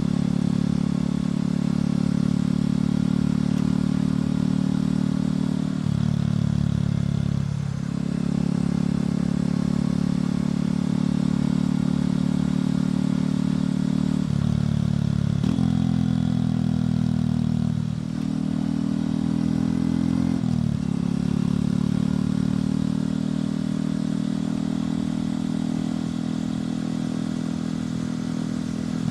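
Motorcycle engine and exhaust under way at steady road speed. The engine note changes several times, stepping and dipping briefly before settling again.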